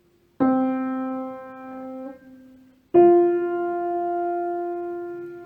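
Piano playing a perfect fourth as two separate notes: middle C, then F above it about two and a half seconds later. Each note is struck and left to ring, and the F sustains.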